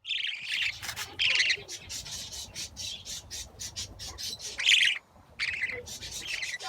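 Budgerigars calling: loud harsh calls at the start, about a second in and just before five seconds, with rapid short chirps in between.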